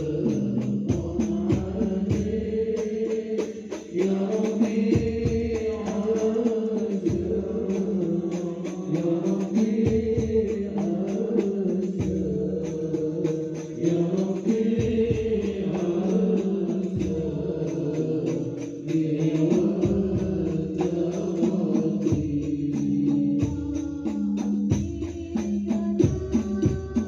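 Islamic devotional chant (sholawat): sustained, gliding voices singing together to hand-struck frame drums beating throughout.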